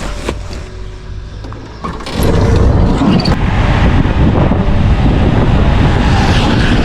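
A motor vehicle's engine running with a steady low rumble. About two seconds in, a loud rough rushing noise like wind buffeting the microphone suddenly takes over.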